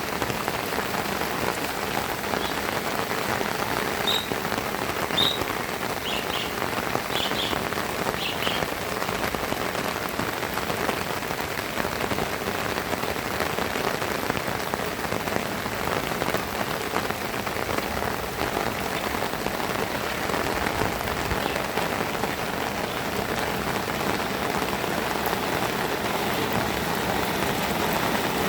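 Heavy rain falling steadily, a dense even hiss of raindrops hitting the ground and surfaces.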